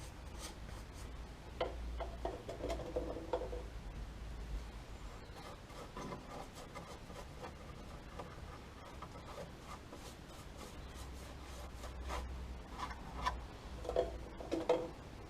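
Light rubbing and scraping on a metal repair panel with a few clicks. It comes in short passes, one about two seconds in and another near the end, with fainter rubbing in between.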